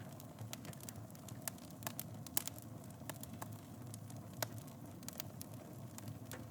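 Wood fire in a fireplace crackling, with irregular sharp pops over a steady low rumble of the flames; the loudest pops come about two and a half seconds in and again about four and a half seconds in.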